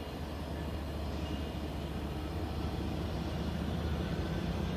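Diesel locomotives of a Union Pacific manifest freight train running with a steady low rumble that slowly grows louder.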